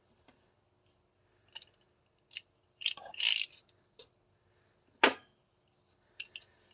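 Airsoft 2011 pistol parts handled during disassembly: scattered light clicks and clinks, a brief scraping rattle about three seconds in, and one sharp, loud click about five seconds in.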